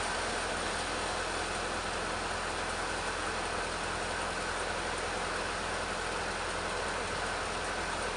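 Petrol chainsaw running steadily at an even pitch, ripping a teak log lengthwise.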